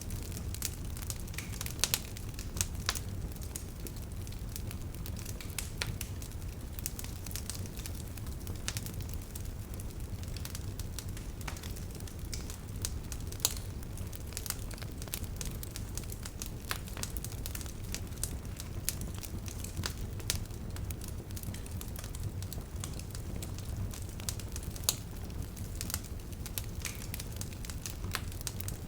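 Bonfire burning, with irregular sharp crackles and pops of the wood over a steady low rumble; a few pops stand out louder.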